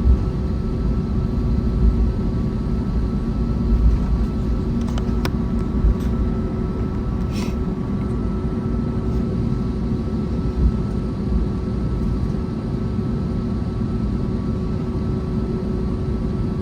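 Cabin noise of an Airbus A321neo with its Pratt & Whitney geared turbofan engines running: a steady drone with several held tones over a deep rumble, with occasional low bumps and a few faint clicks.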